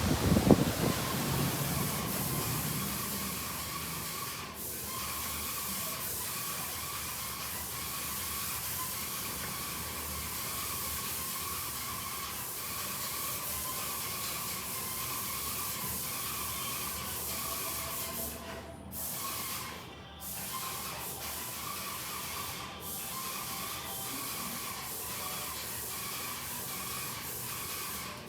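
Steady hiss of heavy rain pouring down in a thunderstorm. A low rumble fades out over the first few seconds.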